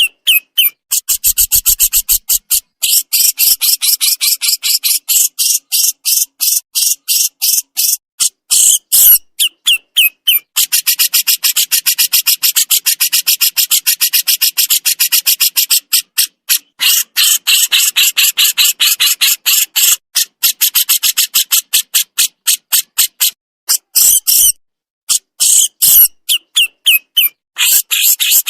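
Burung jenggot (a Javan songbird) singing its 'besetan': long, fast runs of high, scratchy chattering notes, broken by a few short pauses.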